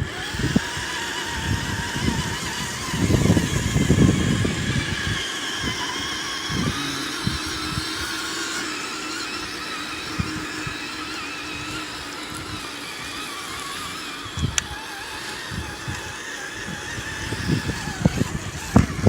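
Electric motor and GRC G2 transmission gears of an RC crawler whining steadily as it drives, the pitch wavering a little with throttle. Wind buffets the microphone in low gusts, most strongly a few seconds in.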